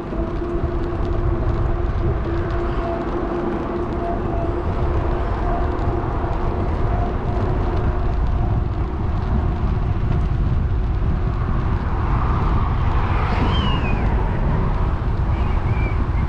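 Wind rushing over an action camera's microphone and rumble from a moving electric bike. A steady hum fades out about halfway through, and a few short high chirps come near the end.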